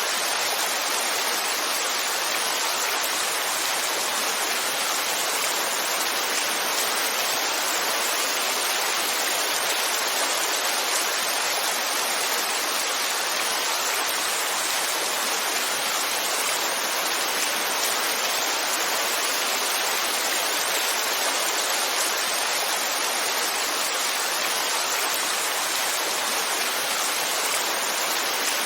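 Heavy rain falling, a steady even hiss with no separate drops, thunder or other events standing out.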